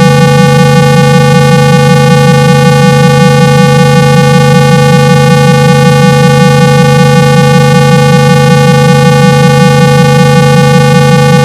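Loud, steady synthesized 165 Hz tone with a stack of overtones that gives it a buzzy edge. It is played to shake water out of a phone's loudspeaker and clear muffled sound.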